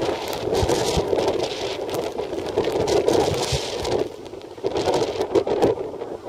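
Typhoon wind and heavy rain: a steady rushing noise that surges in gusts and eases briefly about four seconds in.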